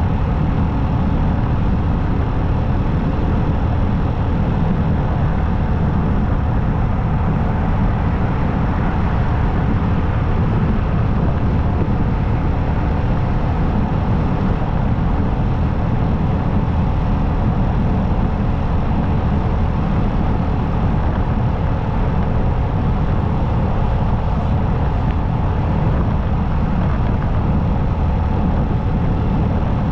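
Motorcycle engine running steadily at an even speed while riding on the highway, under a constant rush of noise. The engine note stays level, with no changes in speed.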